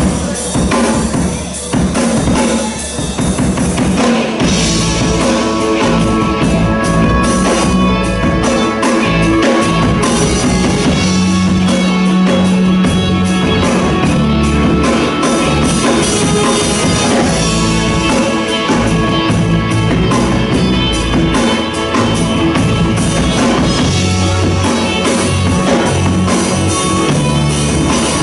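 Rock band playing a song live through a PA at a soundcheck: drum kit, bass and electric guitars, with the full band coming in about four seconds in.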